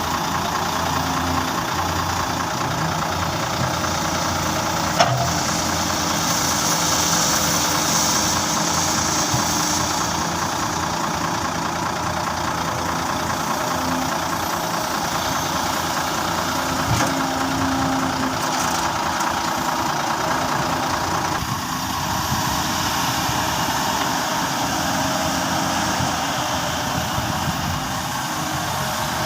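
Excavator engine running steadily while it loads a truck, with a sharp knock about five seconds in and a fainter one later.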